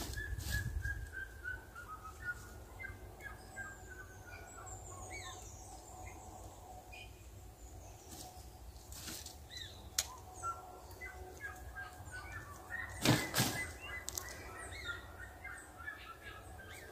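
Wild birds calling in runs of short, quick chirping notes, with a few high falling whistles about four seconds in. Scattered sharp clicks and rustles from handling fishing tackle, the loudest about thirteen seconds in.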